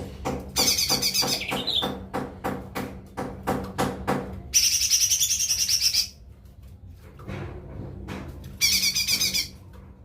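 Lesser green leafbird (cucak ijo mini) singing: three bursts of fast, high trilled song, the middle one the longest and loudest. A rapid run of sharp clicks, about five a second, goes on through the first half.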